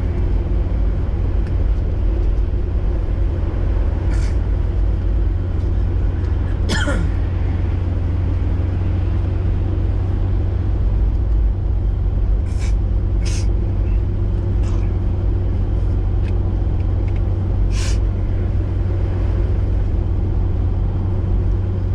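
Steady low engine and tyre drone inside the cabin of a full-time four-wheel-drive Toyota driving slowly on a snow-covered highway. A few brief sharp clicks stand out above the drone, near 4, 7, 13 and 18 seconds in.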